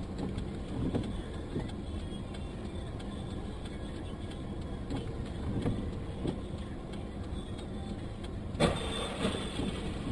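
Steady vehicle road and engine noise as heard from inside a moving car, with a sudden louder burst of noise about 8.5 seconds in.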